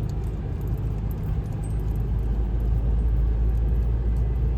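Motor vehicle driving on a road: a steady low rumble of engine and road noise.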